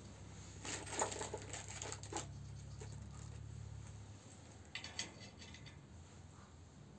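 Light metallic clinking and rattling of small stove parts being handled, in two flurries: one about a second in and a shorter one about five seconds in. A low steady hum underneath cuts off about four seconds in.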